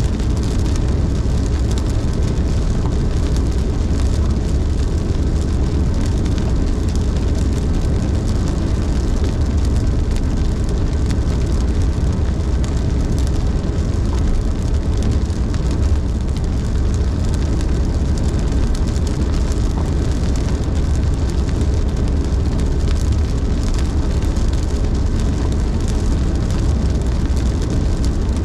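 Car driving on a rain-soaked road: a steady low rumble of tyres and engine with a hiss of rain and water spray.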